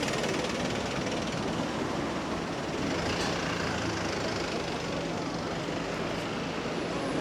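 Busy street ambience: the steady noise of passing road traffic with a low engine hum underneath.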